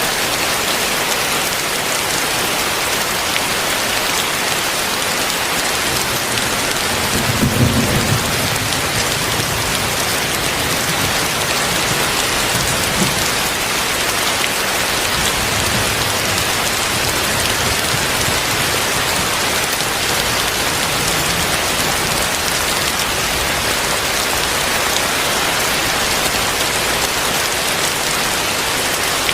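Heavy rain pouring steadily. About seven seconds in, a rumble of thunder swells and then rolls on faintly for several seconds.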